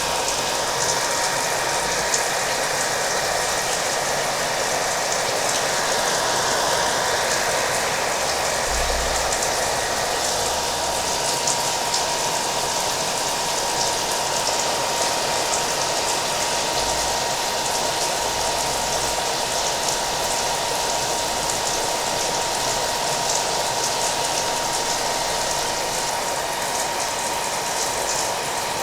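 Hair dryer running steadily with a constant whine, mixed with steady rain.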